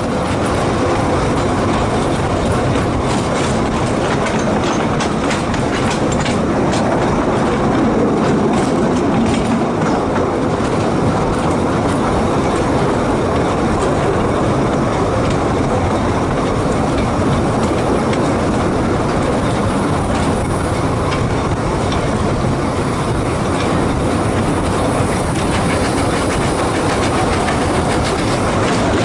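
Narrow-gauge railway carriage running along the track, its wheels clattering steadily over the rail joints, heard from an open carriage window.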